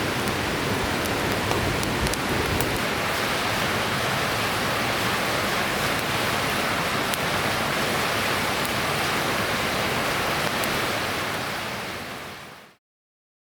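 River water rushing steadily, then fading out to a brief silence near the end.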